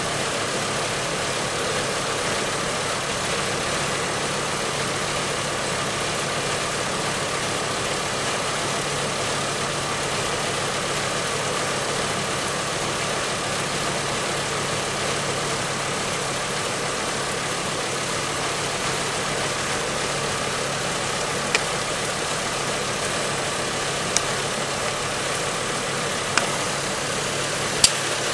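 Volkswagen Passat V5's five-cylinder VR5 engine idling steadily, the car recorded for an abnormal noise after a dealer check and repair. A few short sharp clicks come in the last few seconds, about two to three seconds apart.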